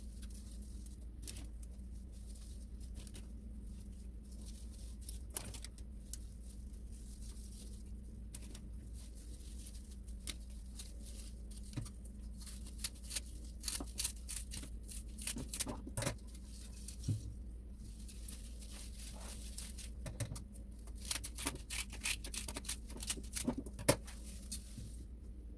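Small clicks, taps and light rustles of things being handled, sparse at first and coming thick and fast in the second half, over a steady low hum.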